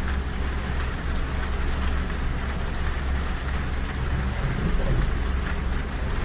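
Rain on a train carriage window over the steady low rumble of a moving train.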